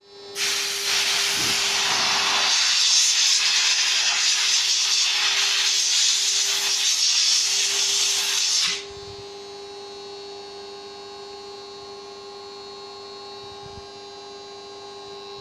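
CNC router spindle milling solid maple: a loud, even hiss of the bit cutting the wood over a steady whine. About eight and a half seconds in, the hiss stops and only the spindle's steady whine is left.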